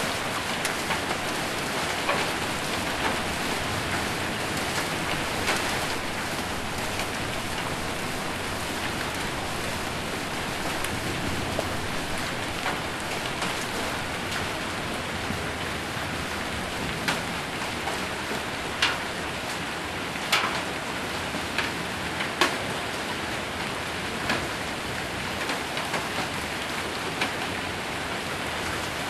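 Heavy rain with hail drumming on a roof: a steady rush of rain with scattered sharp, single hits a few seconds apart.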